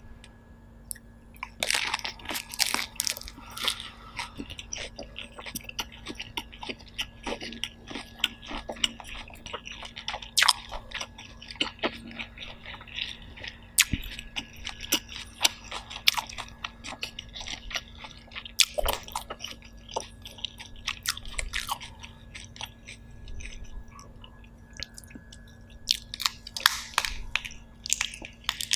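Close-miked chewing and crunching of a lettuce-leaf wrap with steamed lobster meat, wet and crisp, starting about a second and a half in. Near the end come sharper cracking sounds as a steamed shell is pulled apart by hand.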